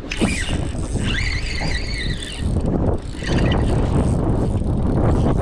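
Fishing reel drag squealing as a hooked bass pulls line: one high-pitched squeal starts about a second in and lasts about a second and a half, over low wind rumble on the microphone.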